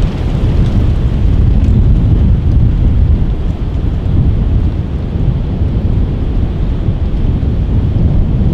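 Strong wind buffeting the microphone: a loud, continuous low rumble that swells and eases.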